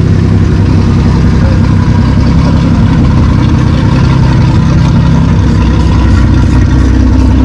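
A loud engine running steadily at idle.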